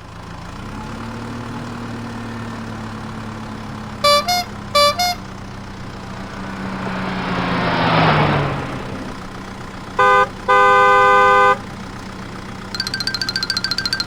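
Cartoon vehicle sound effects: a steady engine hum, two quick double toots of a horn, a vehicle whooshing past with its pitch dropping, then a short and a long horn honk. Near the end, a rapid run of fast beeps.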